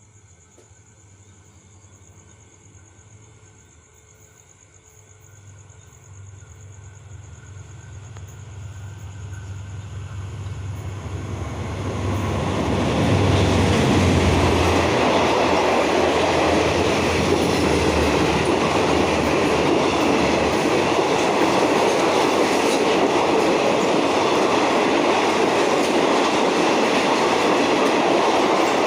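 A diesel-hauled State Railway of Thailand train approaches, its low engine drone growing steadily louder over about a dozen seconds. It then passes close by with steady, loud rolling noise and wheel clatter on the rails.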